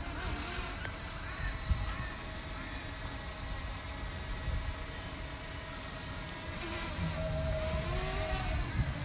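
Strong wind buffeting the microphone: a gusty low rumble that rises and falls. Faint wavering tones come through it and grow louder near the end.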